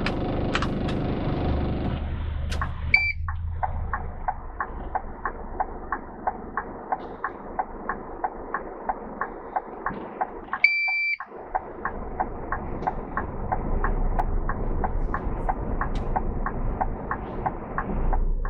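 Vehicle indicator ticking evenly, about three clicks a second, after a low engine rumble eases about two seconds in. A short electronic chime sounds about three seconds in, and a longer one around eleven seconds.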